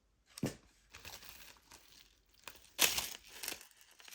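Crinkling and rustling handling noise as jewelry is sorted by hand, with a sharp knock about half a second in and a louder crackle near three seconds.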